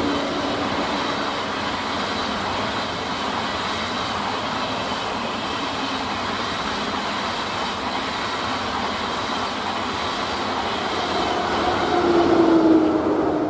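Deutsche Bahn ICE high-speed electric trainset passing close by at speed, with a steady rolling noise from its coaches. A power-car hum is heard at the start and again, louder, about twelve seconds in as the rear power car goes by.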